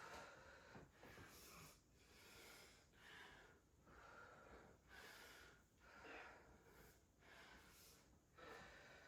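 Faint, hard breathing of a woman exercising through a burpee set, with roughly one breath a second.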